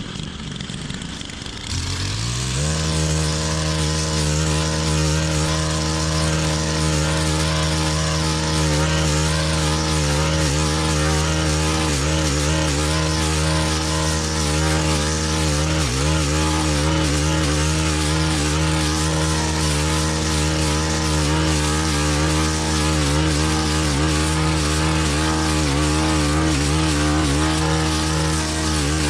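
Stihl FS-131 brush cutter's 4-MIX engine revving up to full throttle about two seconds in, then running steadily at high speed as it mows dense canary grass with a mulching blade. There is a brief dip in engine speed about halfway through.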